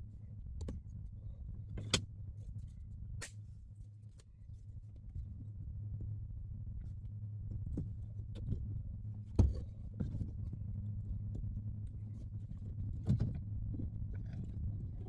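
A steady low hum with scattered sharp clicks and knocks at irregular intervals, the loudest about nine seconds in.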